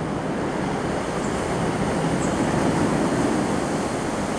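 Scotrail multiple-unit passenger train moving slowly along the track past the platform: steady wheel and running noise, getting slightly louder.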